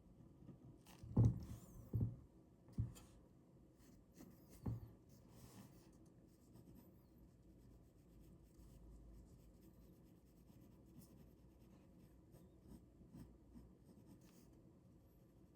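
Ballpoint pen drawing on paper, faint scratching strokes. Four soft knocks, the loudest sounds, fall in the first five seconds.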